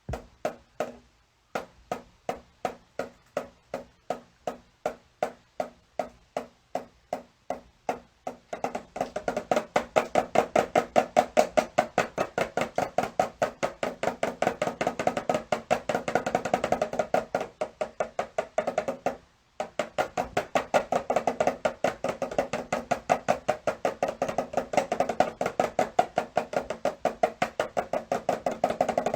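A drum struck in a steady beat of about two to three strikes a second, each stroke with a short hollow ring, quickening to a fast run of strikes about eight seconds in. The beating stops briefly about two-thirds of the way through, then carries on fast.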